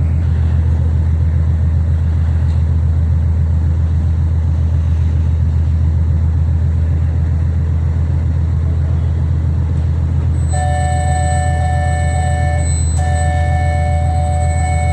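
Steady low rumble of a ferry's engines while the ship berths. About ten seconds in, a steady tone with several pitches starts and runs on, with one short break.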